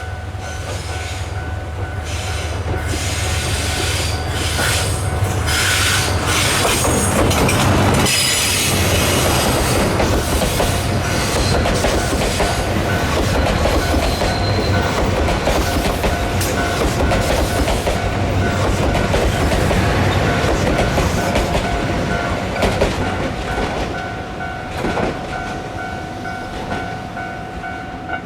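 A train passing at close range: wheels clattering over the rail joints with a steady squeal, growing louder over the first several seconds, staying loud through the middle, then fading near the end.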